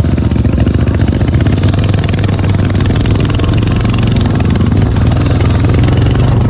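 Royal Enfield Bullet's single-cylinder engine running at steady low revs, its firing pulses coming fast and even.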